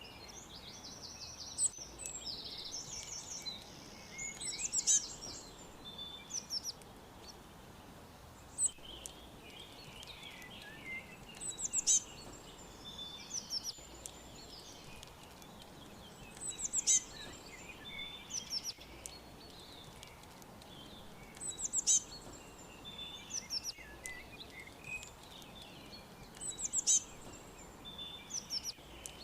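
Songbirds chirping and singing together, with one louder song phrase of quick descending notes repeating about every five seconds over a faint steady hiss.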